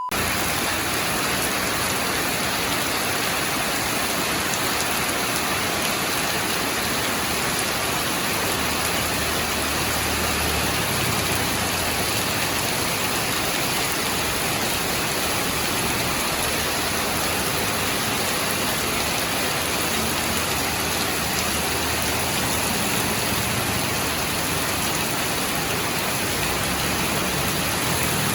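Steady heavy rain falling and pattering on surfaces, an even hiss that holds level throughout.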